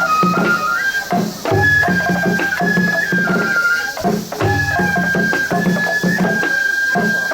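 Japanese festival music accompanying a lion dance: a high flute holds long notes, stepping between a few pitches, over a repeating pattern of drum beats.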